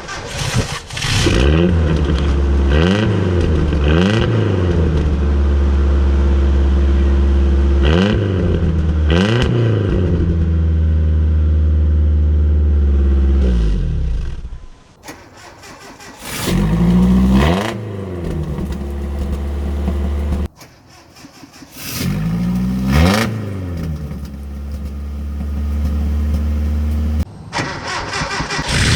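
Truck engine running through a loud exhaust and revved in repeated throttle blips, the pitch climbing and falling back with each one, its exhaust pipe packed with Orbeez water beads to be blown out. The level drops briefly twice, about halfway through and again a few seconds later.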